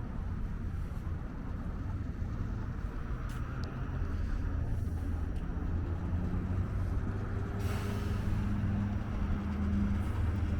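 Bombardier Flexity Outlook streetcar at the loop: a low rumble with a steady electric hum that grows slightly louder in the second half. There are a few faint clicks about three seconds in, and a short hiss about eight seconds in.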